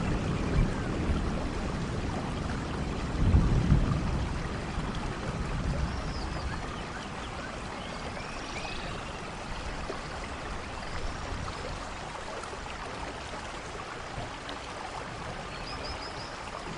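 Rainforest ambience: steady rain falling through foliage, with short high bird chirps now and then and a brief low rumble about three seconds in.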